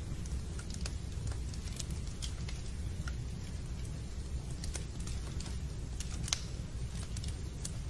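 Fireplace wood fire crackling: irregular sharp pops and snaps over a steady low rumble, with one louder pop a little after six seconds in.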